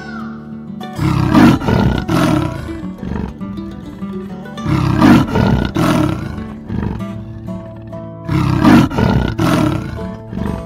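A big cat roaring three times, each roar lasting about two seconds, over steady background music.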